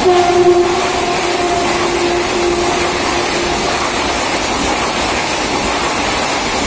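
Mumbai suburban electric local train running: a loud, steady rush of wheel and running noise. Right at the start a steady whine sounds over it and fades out over about four seconds.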